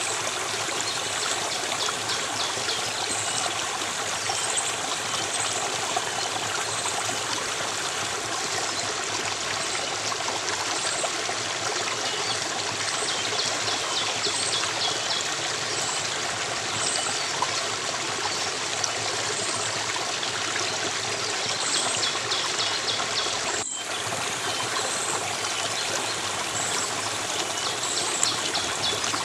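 Stream water running and trickling steadily, with short high chirps repeating faintly over it. A split-second break in the sound near the end.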